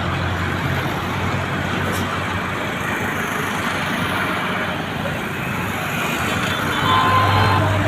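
Road traffic noise: the steady tyre and engine rumble of buses and trucks driving past. About seven seconds in, a heavier vehicle's engine swells louder and a few short high tones sound.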